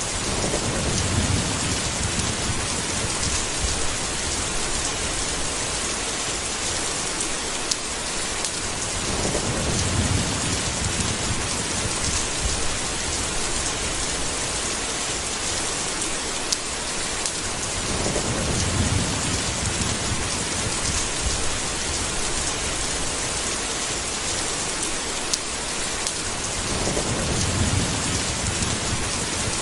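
Steady heavy rain, with a low rumble of thunder swelling about every nine seconds, four times, and a brief sharp tick now and then.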